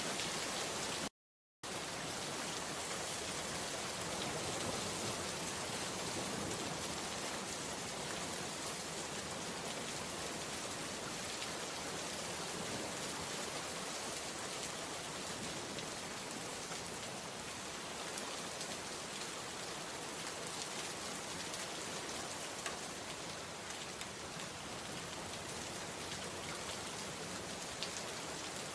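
Steady rain falling, an even hiss of drops with a few sharper single drops standing out. About a second in the sound cuts out completely for half a second, then resumes.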